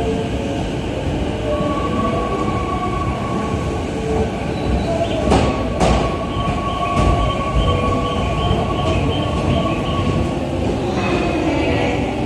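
Keikyu New 1000 series electric train pulling slowly in along an elevated track, rumbling, its steel wheels squealing in a steady high tone. A few sharp clacks of wheels over rail joints come around the middle.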